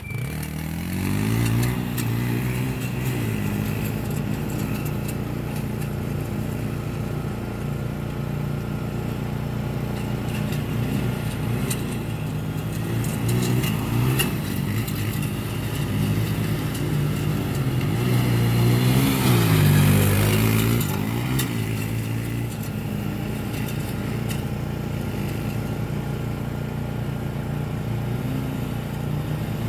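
A motor vehicle's engine runs steadily, its pitch rising briefly near the start and again about two-thirds of the way through as it speeds up.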